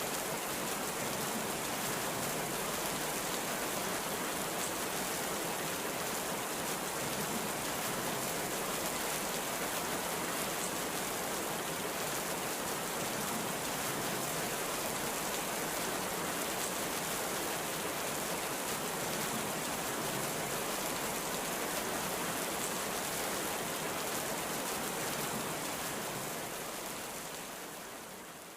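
Heavy rain pouring down steadily in a dense, even hiss, with no thunder. It fades down over the last couple of seconds.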